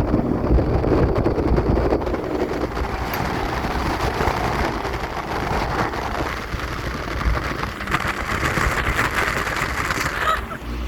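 Speedboat running at speed across choppy sea: a steady engine rumble under rushing wind and water noise.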